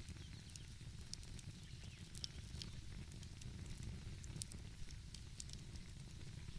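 Wood fire crackling, with scattered sharp pops and snaps every fraction of a second, over a steady low rumble.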